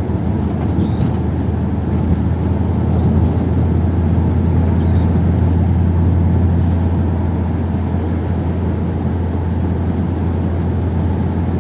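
1957 Ford Thunderbird's V8 burbling steadily under way, with tyre and road noise, its pitch steady and the level swelling slightly in the middle.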